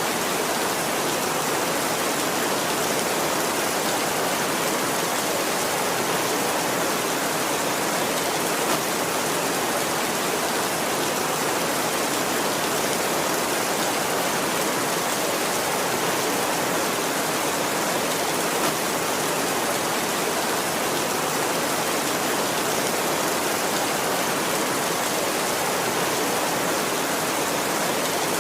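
Heavy rain falling steadily, an even hiss without pauses or thunder.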